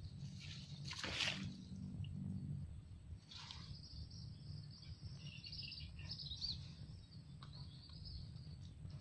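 Outdoor ambience: birds chirping, with high wavering calls from about three seconds in, over a steady low rumble. A short loud rustle about a second in.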